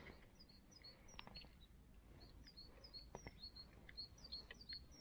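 Faint small-bird song: a steady run of short, high chirps, each dipping slightly in pitch, with a few soft clicks mixed in.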